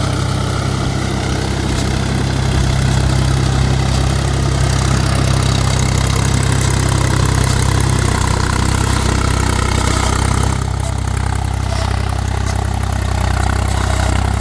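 Mahindra 275 DI TU tractor's three-cylinder diesel engine running at a steady speed. About ten and a half seconds in it drops a little in loudness, then picks up again near the end.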